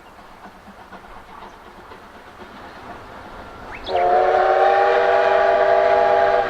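Steam locomotive C56 44's whistle is blown once, about four seconds in: a loud, steady chord of several tones held for about two and a half seconds. Before it, only the faint running sound of the train.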